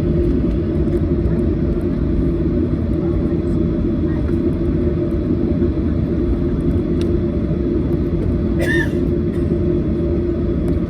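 Steady cabin drone of a Boeing 737-800: engine and airflow rumble with a low hum, and a brief high chirp about nine seconds in.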